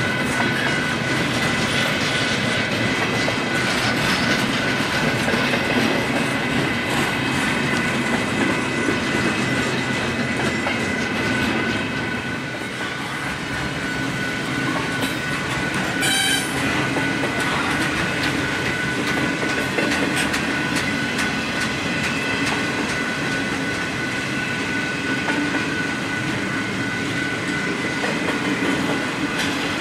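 Union Pacific double-stack container train's well cars rolling past: a steady clatter of wheels over the rails, with a continuous high-pitched wheel squeal over it.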